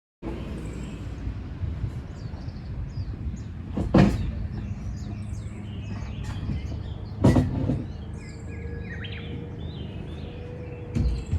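Outdoor ambience: small birds chirping over a steady low rumble, broken by two heavy knocks about four and seven seconds in.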